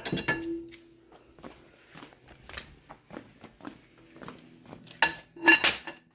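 Steel floor-jack handle and floor jack being picked up and handled: scattered light metal clinks and rattles, with a few loud ringing clanks about five seconds in.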